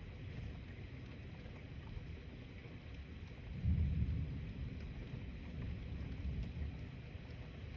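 Thunder rumbling low, swelling suddenly about halfway through and dying away over a few seconds, over a steady hiss.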